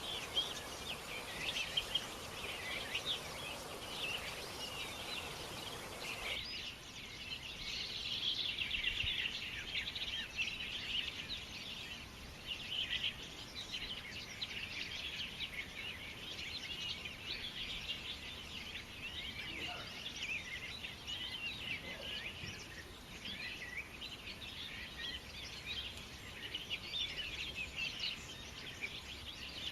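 Many small birds chirping at once in a dense, continuous chorus of short high chirps. A background hiss under the birds drops away about six seconds in.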